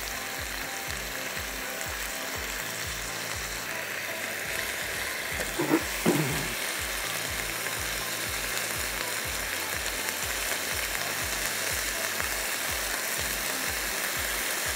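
Minced meat and onions sizzling steadily in a non-stick wok on a gas burner while being stirred with a silicone spatula.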